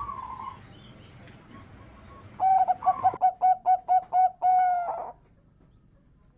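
Male zebra dove (perkutut) singing: one coo phrase of a longer opening note, a quick run of about six short notes and a longer closing note, lasting under three seconds, starting about two and a half seconds in.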